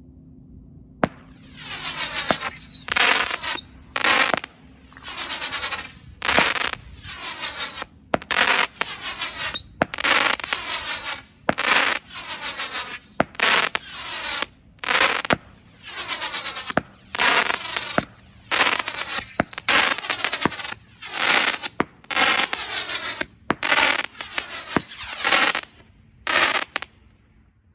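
Winda Fireworks 'Mercurial Bee' 16-shot cake firing shot after shot, about one every second and a half. Each sharp launch report is followed by the shrill whistling of its bee (whistling spinner) effects.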